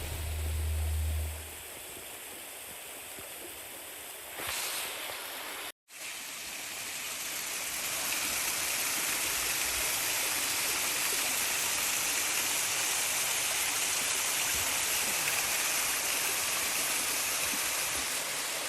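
Rushing water of a mountain stream and its waterfalls, a steady even rush. A last low note of music fades out in the first second or two, and the sound drops out for a moment about six seconds in, after which the water is louder and steady.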